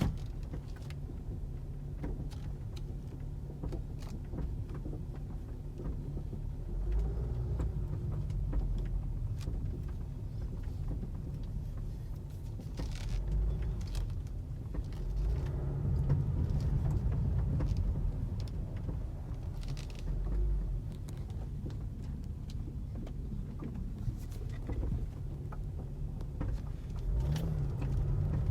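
Low road rumble of a 2016 BMW X5 F15 on the move, with irregular short clicks and rattles that are the strange noise coming from the trunk.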